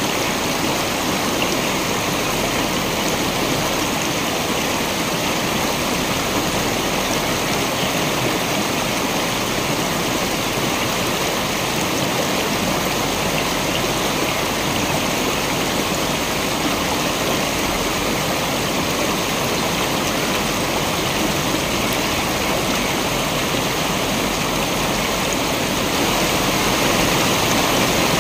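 Waterfall, water pouring and rushing in a steady, even noise, getting a little louder near the end.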